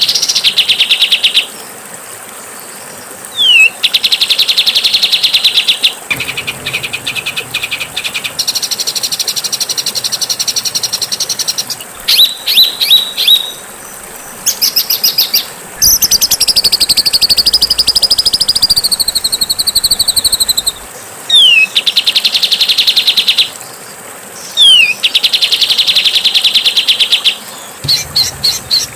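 Songbird song as used for masteran training of caged birds: a short falling whistle followed by a fast, buzzy trill, repeated several times, with rapid chattering trills and a long wavering whistle in the middle.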